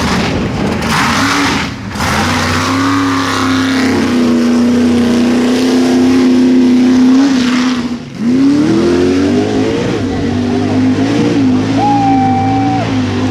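Mega truck engine at high revs running through a mud bog, holding steady for several seconds. About eight seconds in it drops off sharply, then revs back up and rises and falls.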